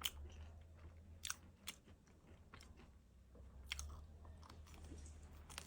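Faint chewing of a fried sugar cake (tanggao), with a handful of sharp, crisp crunches spaced about a second apart.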